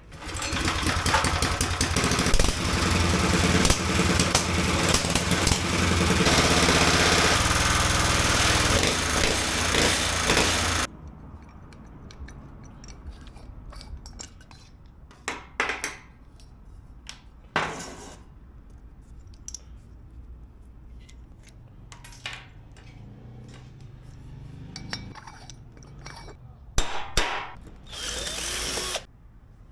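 A power tool runs loudly for about eleven seconds, changing pitch about six seconds in, then stops suddenly. Scattered knocks and clicks of work follow, and the tool runs again briefly near the end.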